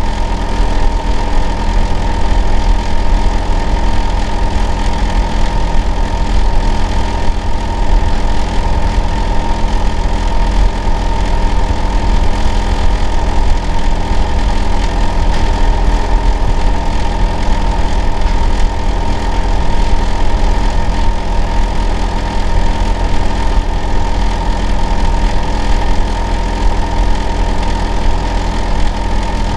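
Hitachi air-conditioner outdoor unit running steadily. It gives a loud, deep hum with a fixed whine above it, which the household next door complains of as an abnormal, noisy sound.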